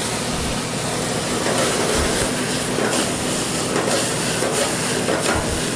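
Beef and vegetables stir-frying in a very hot wok over a gas flame, sizzling and hissing steadily as the pan flares up for the flambé, with a few scattered crackles.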